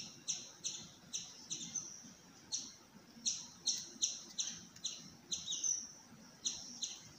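A bird chirping over and over: short, high notes that slide downward, about two a second, in uneven runs with brief pauses.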